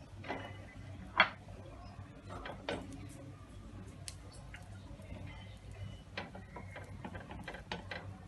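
Light clicks and taps of a spoon against bread and plate while a garlic ghee mixture is spread on bread slices, with one sharper click about a second in.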